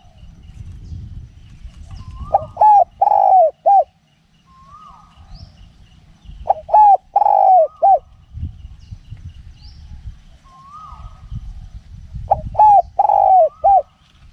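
Spotted dove cooing three times, each phrase a couple of short coos, a longer drawn coo and a short closing coo, repeating about every four and a half seconds. Wind rumbles on the microphone underneath.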